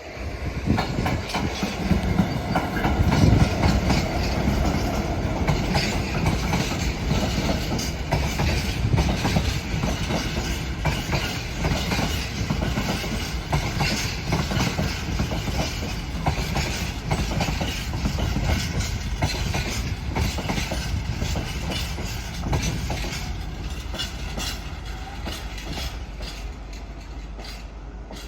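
A train running along the track through the station, its wheels clicking rapidly over rail joints under a steady rumble; it is loudest a few seconds in and slowly fades as it draws away.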